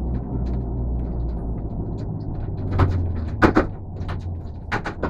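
Race car engine running with a low, steady drone, overlaid by several sharp clicks and knocks, the loudest about three and a half seconds in; the drone eases off near the end.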